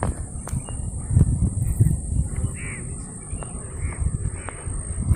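A bird calling several times in the second half, in short harsh calls, over a low, uneven rumble, with a few sharp clicks near the start.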